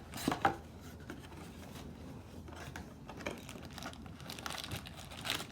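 Card-box packaging being handled and torn open: crinkling and tearing, with a few sharp clicks about half a second in and another near the end.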